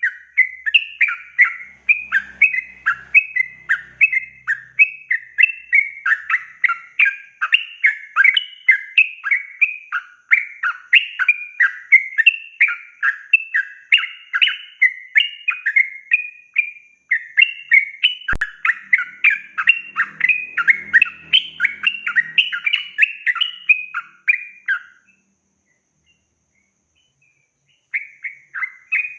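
Yellow-vented bulbul (trucukan) singing a long, fast run of chirping phrases, which breaks off about three seconds before the end and then starts again. A single sharp click is heard partway through.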